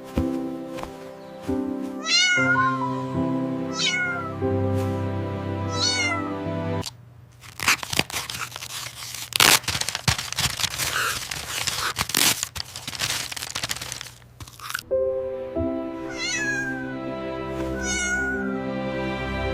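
A kitten mewing several times in short calls over steady background music. In the middle, the music gives way for several seconds to dense crackling noise with sharp clicks.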